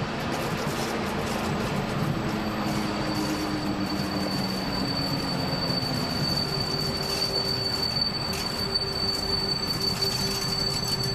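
Flåm Railway train rolling along the track with a steady rumble of wheels on rail. A high, steady wheel squeal sets in a couple of seconds in and holds as it rounds a curve.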